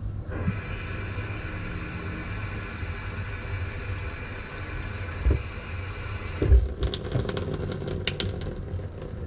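A small motor running steadily with a whine, cutting off about six and a half seconds in, followed by a scatter of short clicks and knocks.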